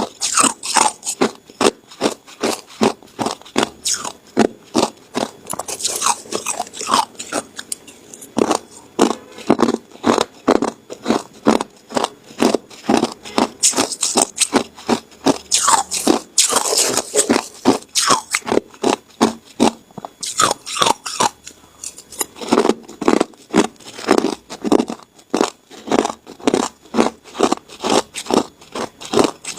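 Ice being bitten and chewed up close: a continuous run of sharp crunches, several a second.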